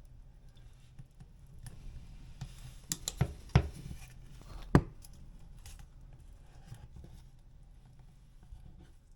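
Putty knife scraping and spreading Evercoat Formula 27 body filler over a drywall patch, with a few sharp clicks and taps; the two loudest come a little over three and a half seconds in and just before five seconds in.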